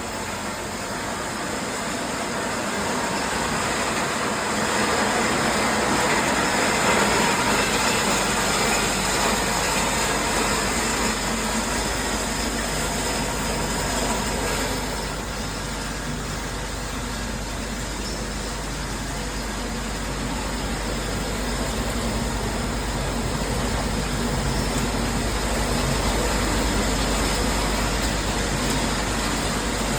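Industrial recycling machinery running: a continuous mechanical din with a low steady hum that comes in about a quarter of the way through.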